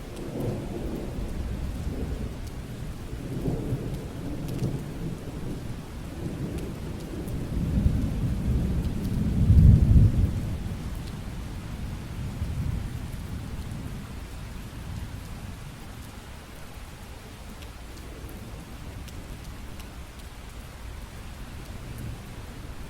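Steady rain with a long roll of thunder. The thunder rumbles low from the start, swells to its loudest about ten seconds in, then dies away, leaving the rain hissing on its own.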